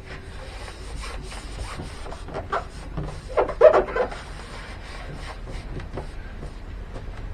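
Acrylic sheet and wood rubbing and knocking as the glued panel is handled and pressed flat against the galley woodwork, with a louder burst of scraping and knocks around the middle.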